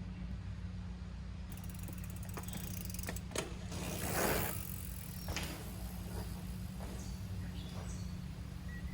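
Mountain bike freewheel hub ratcheting as the bike coasts over dirt, with scattered clicks and a brief rush of noise about four seconds in.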